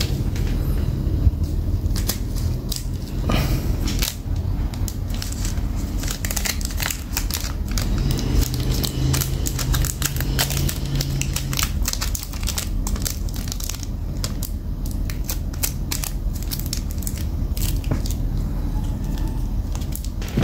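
Zippo lighters and their packaging being handled: many irregular sharp clicks and clacks mixed with crinkling and rustling, over a steady low hum.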